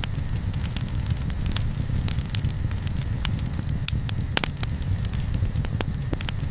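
Campfire crackling, with frequent sharp, irregular pops over a steady low rumble.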